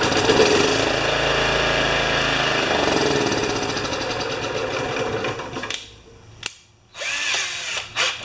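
Kawasaki power drill running under strain as it tries to spin the mower engine, its chuck slipping on the shaft. It cuts out about six seconds in, and a click and some uneven rattling follow.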